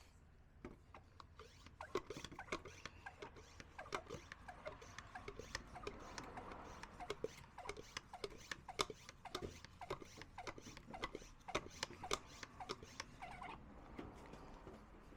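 Irregular small scratches and clicks, several a second, stopping about a second and a half before the end.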